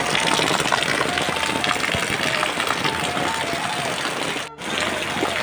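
Heavy rain falling steadily, a dense hiss, which cuts out for an instant about four and a half seconds in.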